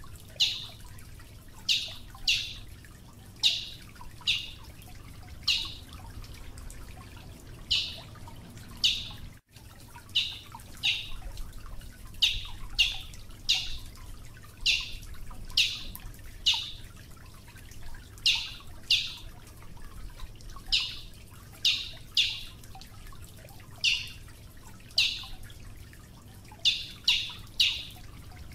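Brazilian tanager giving short, sharp, high call notes, repeated about once or twice a second, sometimes in quick pairs or threes.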